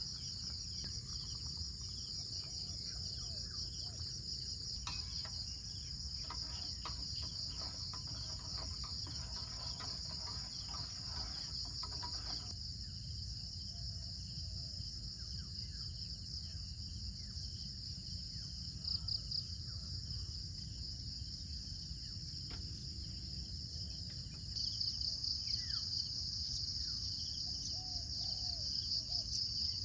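Steady chorus of insects, several high trilling tones layered together, growing louder and more pulsing about three quarters of the way through, with a few faint bird chirps and a soft low rumble underneath.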